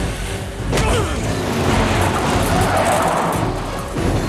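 Action-film soundtrack: a moving train's steady low rumble and clatter under dramatic score music, with a sharp hit about a second in.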